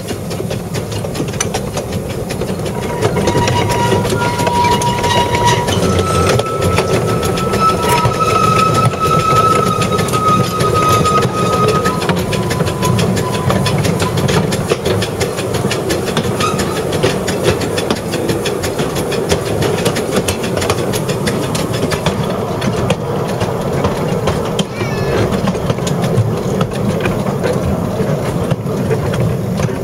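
A 2 ft narrow-gauge train running along its track, with steady rail clatter and wheel clicks. Steady high tones sound for several seconds in the first half.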